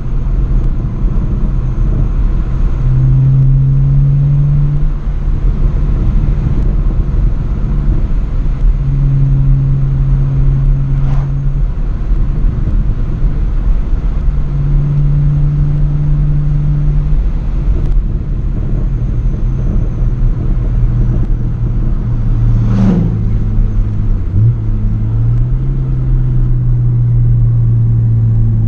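Straight-piped BMW E90 exhaust droning under way, the engine note holding steady for a few seconds at a time and easing off in between. Two short sharp sounds cut in, about 11 seconds in and again near 23 seconds.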